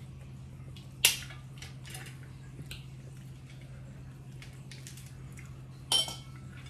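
Eating a seafood boil: faint clicks and wet squishing as crab and shellfish are picked apart and chewed, with two sharp clinks, about a second in and near the end, over a steady low hum.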